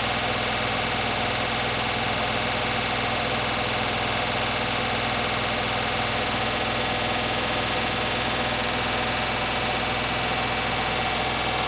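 Beko WTK104121W front-loading washing machine on its 1400 rpm spin cycle, drum spinning at a steady speed: a constant hum and whine that holds one pitch throughout.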